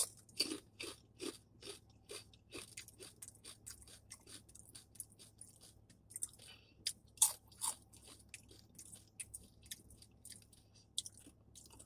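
Crispy fried chicken skin chips being bitten and chewed close to the microphone: a run of irregular dry crunches, thick at first and then more spread out, with a louder bite about seven seconds in.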